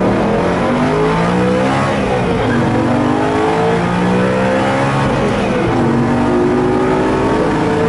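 BMW M3 E92's V8 engine pulling hard from inside the cabin, rising in pitch through the gears. The pitch drops back for an upshift about two and a half seconds in and again near six seconds, then climbs again.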